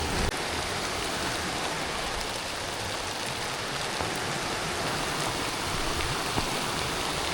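Steady soaking rain falling: an even hiss with scattered drop ticks.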